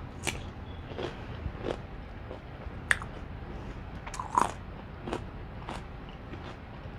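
Close-up mukbang eating sounds: a person chewing sauce-covered seafood boil food, with wet mouth smacks and crunches every half second to a second. The sharpest click comes about three seconds in, with a loud double smack a little later.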